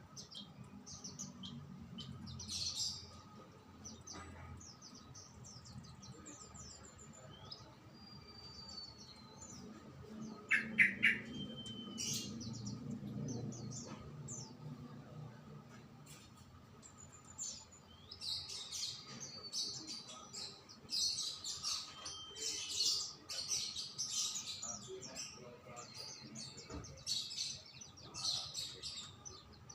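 Songbirds chirping and twittering in many short, high calls with a few slurred whistles, sparse at first and thickening into near-continuous chatter in the second half. A faint steady hum runs underneath.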